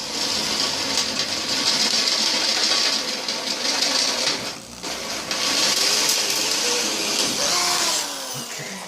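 Electric drill boring a tap-drill hole with a letter-H bit, the tapping size for an M8×1.25 thread. It stops briefly about halfway, runs again, then winds down near the end.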